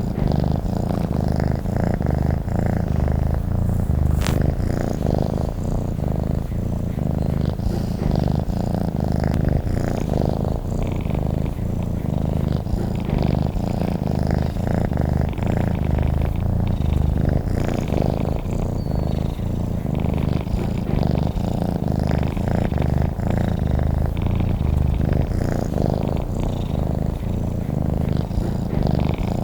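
Domestic cat purring steadily and continuously, a low, even rumble without a break.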